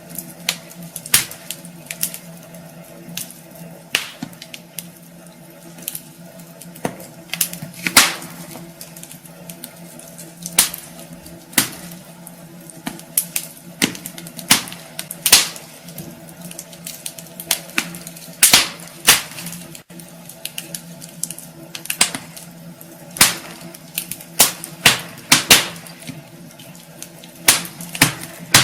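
Wood fire burning in a fireplace, crackling with irregular sharp pops and snaps of varying loudness over a steady low hiss and hum.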